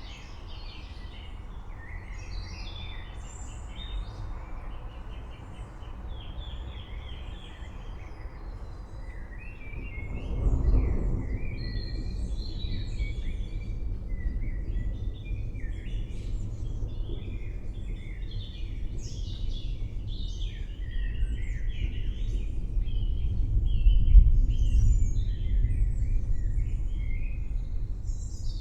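Many birds chirping and calling over a low rumble of thunder. The rumble swells about ten seconds in and grows loudest again later on.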